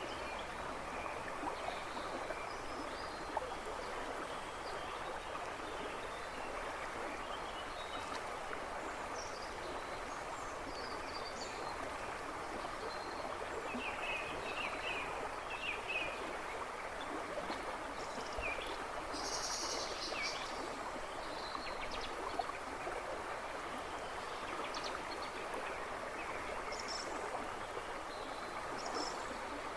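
A river rushing and babbling steadily over stones, with a few birds chirping and trilling in the background woods at intervals.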